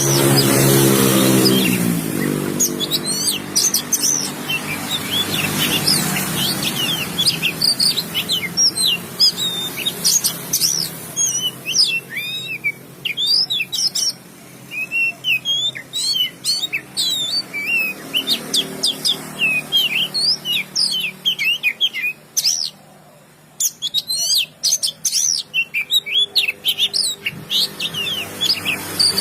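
Oriental magpie-robin (kacer) singing a long, varied song of rapid high whistles and chirps, breaking off briefly a little past the middle. A low steady drone sits underneath at the start and again later on.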